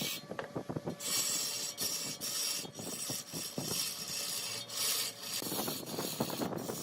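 Turning tool cutting into mahogany spinning on a wood lathe: a scraping hiss that comes and goes in passes of about a second, with crackling ticks between them.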